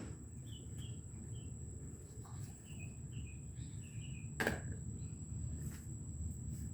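Short chirps from a small bird, about eight brief falling notes, over a steady low rumble and a constant thin high whine, with one sharp click about four and a half seconds in.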